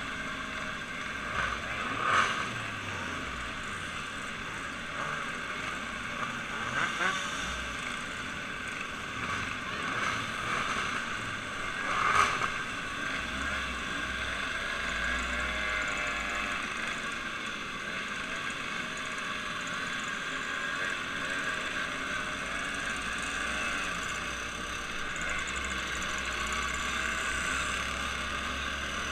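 A motor running steadily, with a couple of brief louder knocks, about two seconds in and again near the middle.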